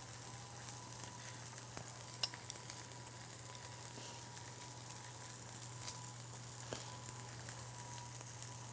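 Breadcrumb-coated chicken cutlets sizzling in hot oil in a frying pan: a faint, steady hiss with scattered small crackles.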